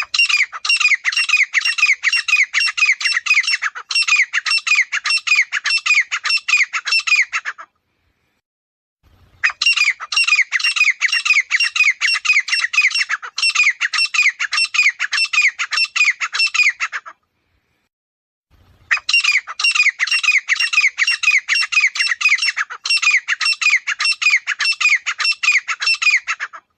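Grey francolin calling loudly in three long bouts of rapid, harsh repeated notes, each bout lasting about seven and a half seconds, with short silent gaps between them.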